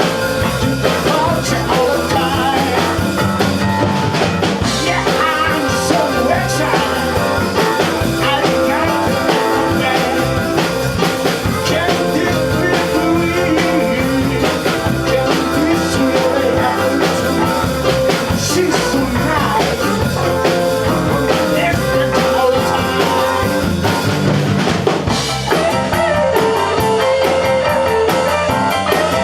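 Rock band playing: drum kit, guitar and other instruments in a full, steady mix. About 25 seconds in the sound briefly dips, and the very top end thins out after it.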